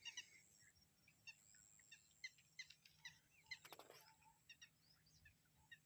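Faint, scattered bird chirps over a quiet open-air background, with one brief louder sound just before the four-second mark.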